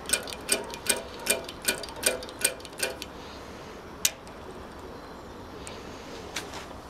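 Regular metallic clicking, about two and a half clicks a second, that stops about three seconds in, with one more click about a second later.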